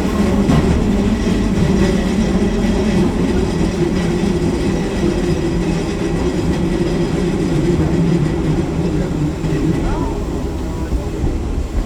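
Eizan Electric Railway train running steadily along the track, a continuous rumble of wheels and running gear.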